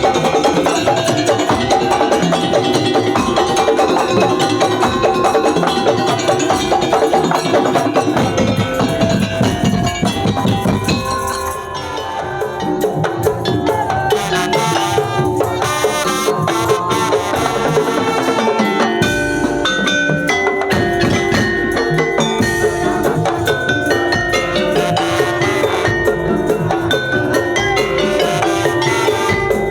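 Madurese traditional percussion ensemble playing: gendang drums with tuned mallet percussion carrying a melody. The playing thins and drops in level briefly about a third of the way through, then carries on.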